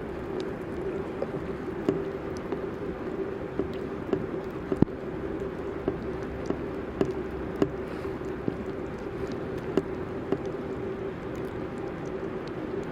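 Downtown street ambience in a snowstorm: a steady hum with scattered sharp clicks and ticks.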